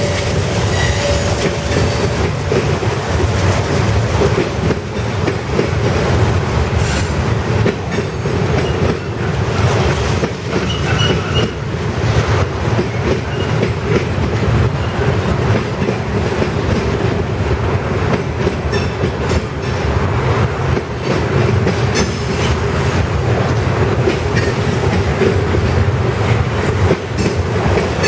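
Freight train cars rolling past: a steady heavy rumble with frequent wheel clicks over the rail joints and a few faint, brief wheel squeals.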